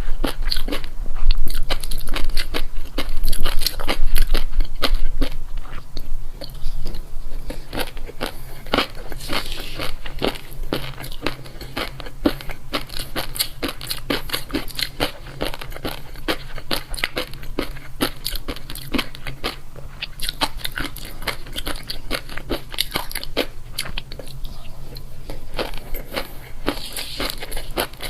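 Close-miked crunching and chewing of crisp food, a fast run of crackling bites that is loudest in the first few seconds, then keeps on a little softer.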